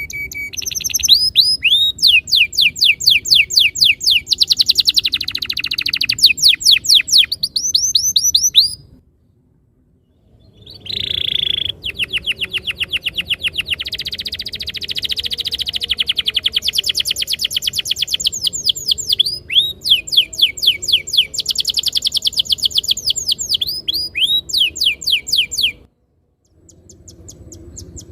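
Domestic canary singing a fast rolling song: long trills of rapidly repeated down-slurred notes. The song breaks off into brief silences about nine seconds in and again near the end.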